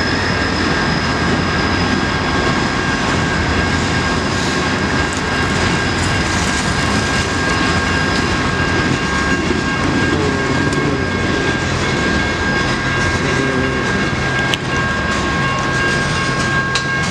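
CSX freight train's hopper cars rolling through a grade crossing: a steady, loud rumble and clatter of steel wheels on the rails.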